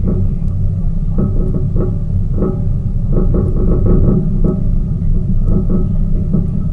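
Tour boat's motor running steadily under way, a heavy low rumble with irregular knocks and faint tones above it.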